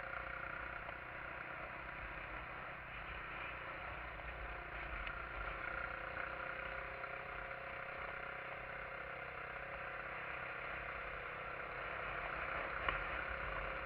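A SYM XS125-K 125 cc motorcycle's engine running steadily while riding at low speed, together with the wind and road noise of the ride.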